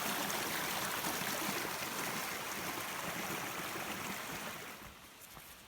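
Wild River, a mountain river, flowing with a steady rush of water that fades out near the end.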